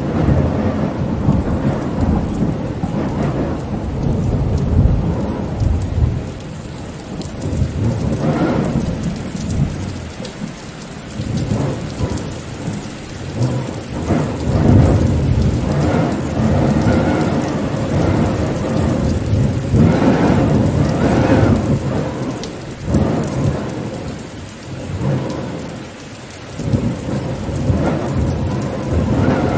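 Steady rain with wind, in deep rumbling swells that rise and fall every few seconds.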